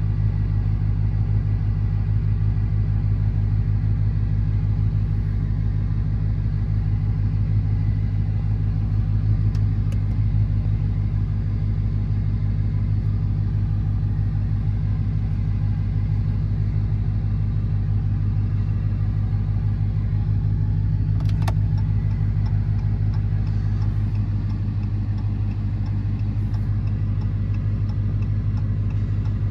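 Dodge Charger R/T's V8 engine and tyres droning steadily at a constant speed, heard from inside the car, with no revving. A single sharp click sounds about two-thirds of the way through.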